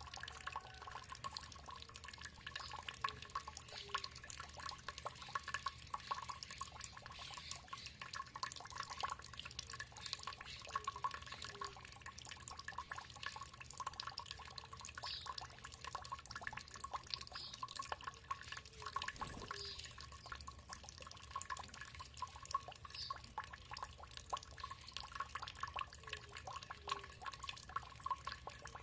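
Water trickling and dripping in a steady, quick patter of small drops, with faint short bird calls now and then.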